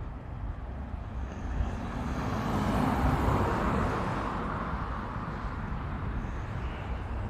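A vehicle passing by: its noise swells to a peak about three seconds in and then slowly fades, over a steady low rumble.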